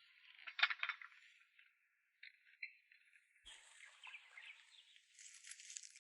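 Faint knocking and clattering of cut branches and firewood being handled, with a rustle of twigs and leaves.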